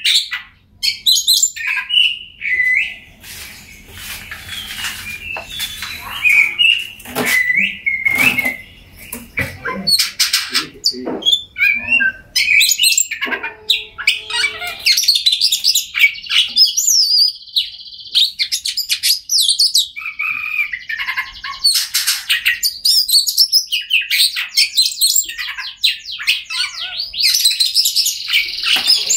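Oriental magpie-robin singing a long, varied song of rapid whistles and trills, broken by short clicking notes, with no pause.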